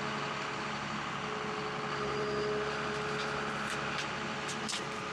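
Forestry log forwarder's engine running steadily under hydraulic load, with a few sharp cracks about three and a half to five seconds in.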